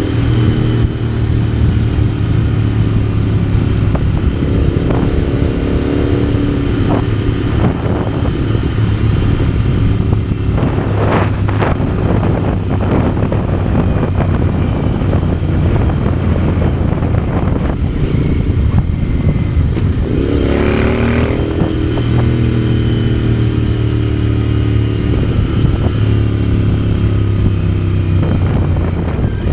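Motorcycle engine running steadily under way, its low exhaust note constant, with a few short knocks about a third of the way in. About two-thirds through, the engine note dips and then climbs again as the revs change.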